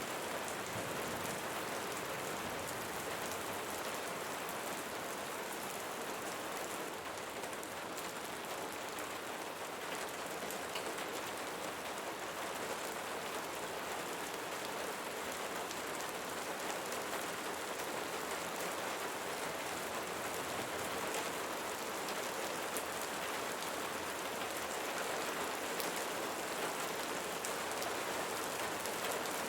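Steady rainfall: an even hiss of rain with scattered individual drops pattering on a surface.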